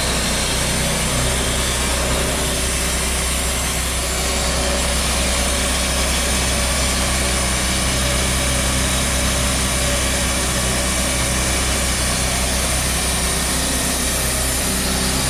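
Portable sawmill engine running steadily at an even speed.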